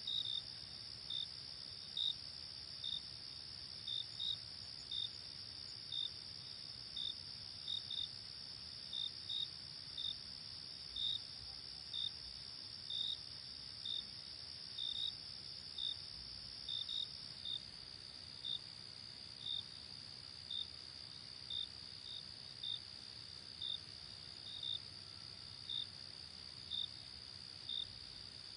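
Night chorus of crickets: a steady high trill with a clear chirp about once a second over it, now and then in quick pairs. The steady trill steps slightly lower about two-thirds of the way through.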